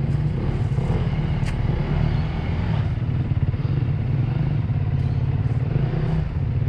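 2016 KTM 350 EXC-F dirt bike's single-cylinder four-stroke engine running steadily at low revs over rough ground, with a couple of sharp clacks, one about a second and a half in and another near five seconds.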